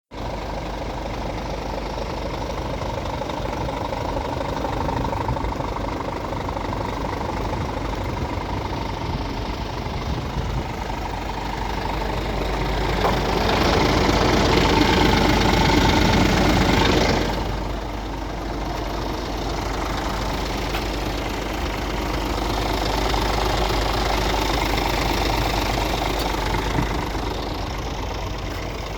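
Scania R450 truck's 13-litre inline-six diesel idling steadily, rising in a louder rev between about 13 and 17 seconds in, then dropping quickly back to idle.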